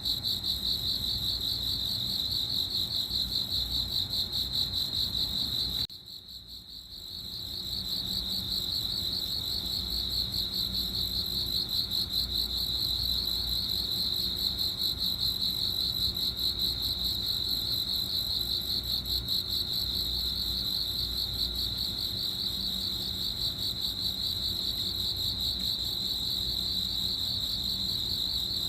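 A cricket chirping in a fast, steady trill of rapid pulses around a single high tone. About six seconds in it drops away briefly, then fades back up within a second or two.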